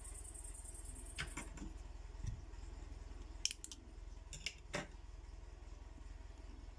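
Small sharp clicks and snips of carp rig tackle being handled and trimmed with scissors, about eight of them scattered irregularly, over a low steady hum.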